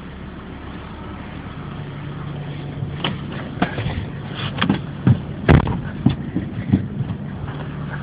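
Volvo 850's inline five-cylinder engine idling steadily. Several knocks and clunks sound over it from about three seconds in, the loudest about five and a half seconds in.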